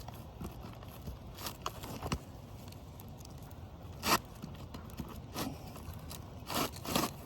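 Asphalt 3-tab shingle being pushed and wiggled back into place on a roof: a series of short scrapes and rustles, the loudest about four seconds in and a cluster near the end.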